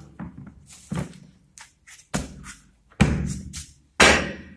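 Knocks and clatter of vacuum cleaner parts being handled and closed up: about five sharp knocks, each trailing off briefly, the loudest near the end.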